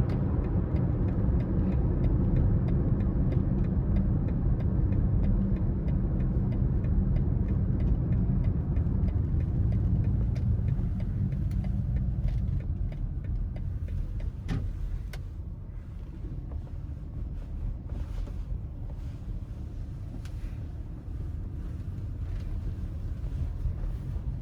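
BMW X5 30d's diesel engine and tyre rumble on the road while driving. It is a steady low rumble that is louder in the first half and eases off about halfway through, as if the car is lifting off or slowing, with a single sharp click near the middle.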